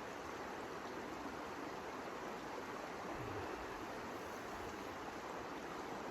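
Steady, even rushing noise with no rhythm or distinct events.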